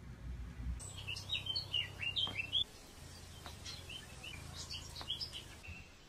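A bird chirping: a quick run of short, high chirps that starts about a second in and stops near the end, over a low steady hum.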